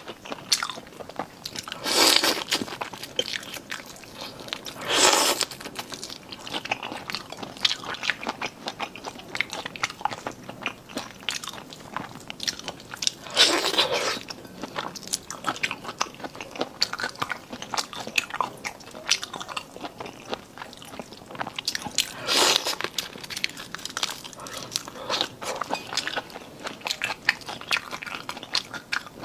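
Close-miked chewing and crunching of seafood in the mouth, with small clicky mouth sounds throughout and four louder bites about a second long.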